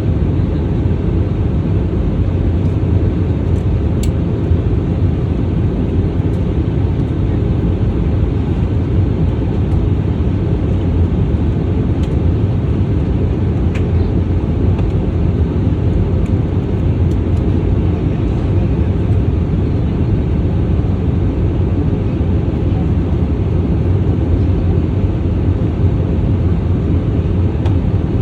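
Steady low drone of an airliner's engines and rushing air, heard inside the passenger cabin during the approach, with a few faint ticks.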